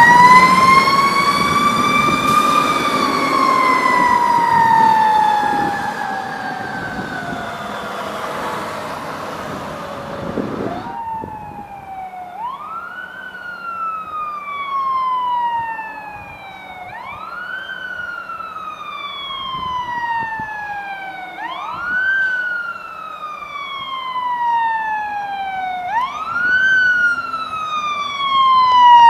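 Fire engine siren winding up to a peak and then slowly falling away over about eight seconds, cut off suddenly. It is followed by a siren wail that repeats a quick rise and a slow fall about every four seconds.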